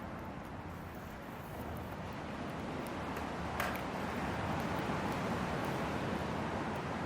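Hardwood campfire burning: a steady low rush of flames with scattered small crackles, and one sharper pop a little past halfway.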